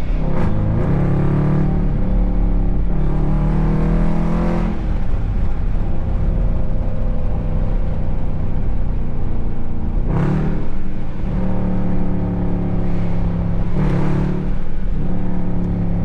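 Loud V8 muscle-car exhaust pulling hard under acceleration, the engine note rising early on. Several short, sharp blasts come later, around the middle and near the end.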